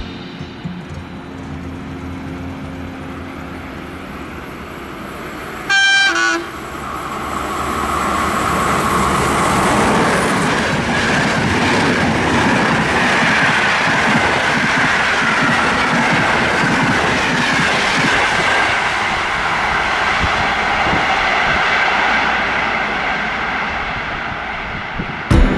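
An EA1-class electric locomotive gives one short horn blast about six seconds in. Then it and its passenger coaches pass at speed, and the rush of wheels on rail builds, holds for about fifteen seconds and fades near the end.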